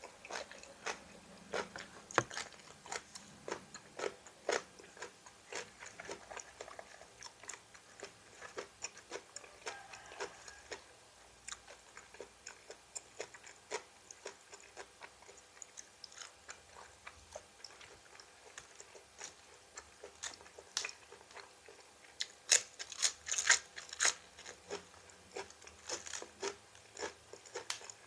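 A person biting and chewing crisp raw vegetables close to the microphone: a run of irregular sharp crunches, loudest a little over three-quarters of the way through.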